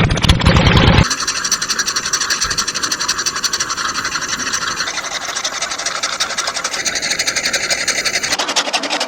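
Small electric motor of a DIY miniature machine running: a loud, fast pulsing for the first second, then a steady whine with a fast rattling rasp that changes abruptly twice.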